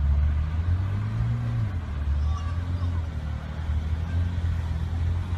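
Porsche sports car's engine running with a low, steady drone, revving up briefly about a second in and settling back, as the car drives on a snow-covered road.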